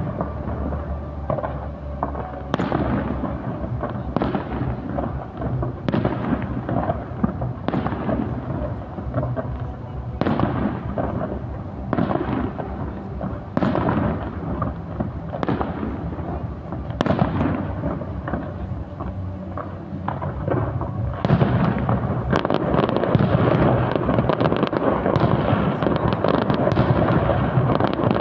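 Fireworks shells bursting, one report every second or two, each trailing off in a rolling echo. About two-thirds of the way in the bursts crowd together into a louder, dense barrage of booms and crackles.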